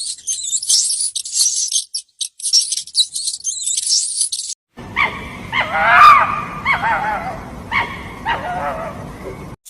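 High-pitched rapid chirping and trilling for about four and a half seconds, then, after a short break, a series of yelping barks from a canine.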